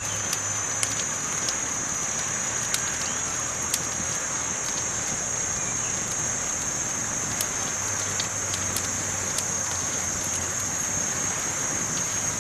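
Campfire burning with a steady hiss and irregular sharp crackles and pops from the wood, over a constant high-pitched hiss.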